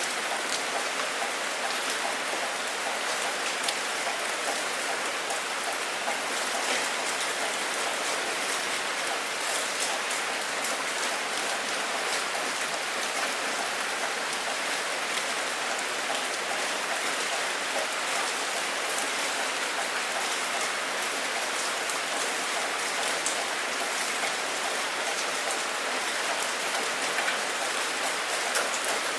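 Steady rain falling, an even hiss with many sharp individual drops ticking close by.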